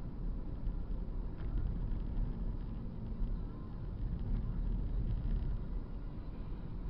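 Road and engine rumble of a moving car picked up by a dashcam, a steady low noise with a faint high whine.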